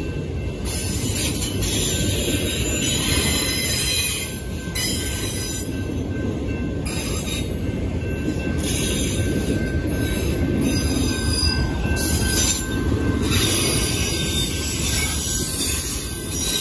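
BNSF autorack freight cars rolling past at a grade crossing: a steady rumble of steel wheels on rail, with a thin high tone over it.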